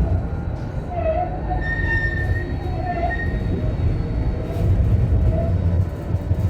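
Tram running on rails with a steady low rumble, and a high-pitched wheel squeal held for about a second and a half near the middle.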